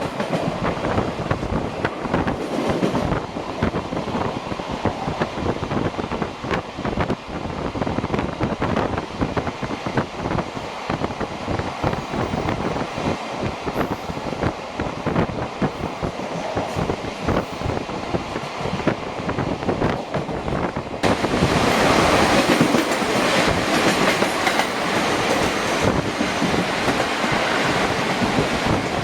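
Passenger train running at speed, heard from inside the coach: steady running noise with wheels clattering over the rail joints. About 21 seconds in, the sound suddenly becomes louder and hissier and stays that way.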